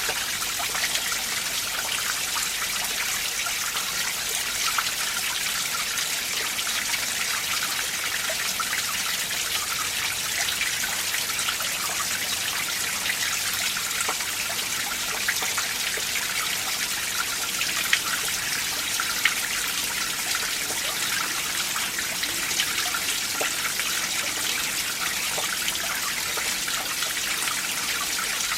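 Winter mountain stream trickling steadily over rocks, a high, even rush of water, with a couple of sharper splashes about two thirds of the way through.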